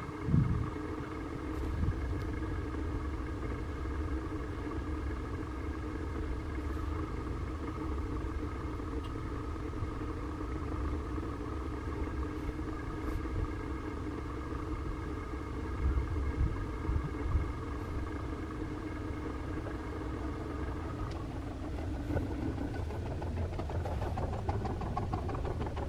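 Rail vehicle running with a steady mechanical hum over a low rumble. The higher tones of the hum drop out about 21 seconds in, leaving a noisier running sound.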